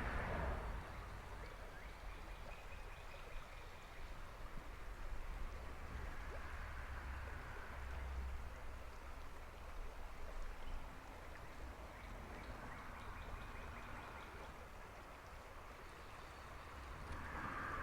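Creek water running steadily, a soft even rush that swells and eases a little over several seconds.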